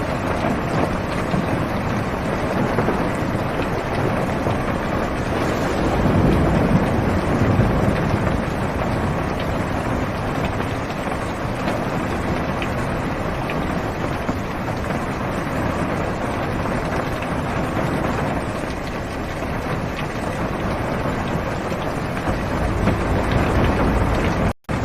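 Heavy rain falling on a car's roof and windows, heard from inside the car as a steady dense hiss. A low rumble swells about six seconds in. The sound cuts out for an instant near the end.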